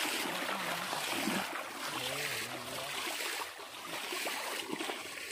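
Muddy pond water sloshing and splashing as several people wade through it, churning the water to drive fish.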